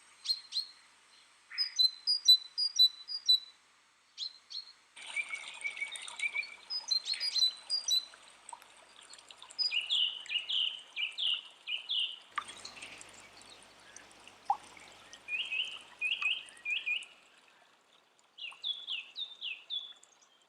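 Birds singing: repeated phrases of quick high chirps, with short pauses between songs.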